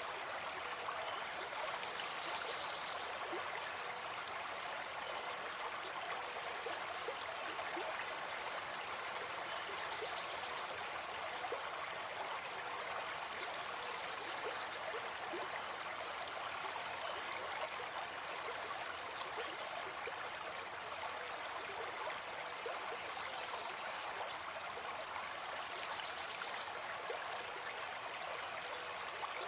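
Shallow forest stream flowing over stones: a steady babbling rush of water with small gurgles throughout.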